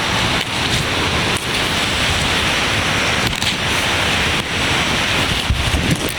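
Heavy rain falling steadily, with wind buffeting the microphone in an uneven low rumble.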